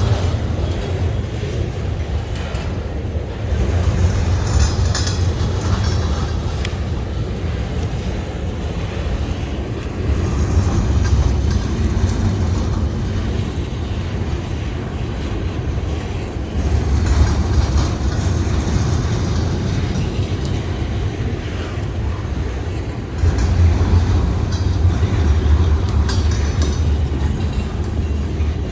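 Freight train rolling past: a heavy low rumble that swells and eases every few seconds, with the clicking of wheels on the rails.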